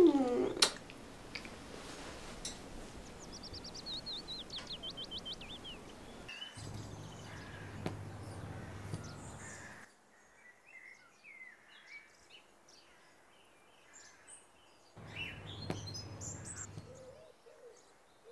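Birds calling: a quick run of about a dozen falling chirps a few seconds in, then scattered faint chirps, over a faint low hum that comes and goes.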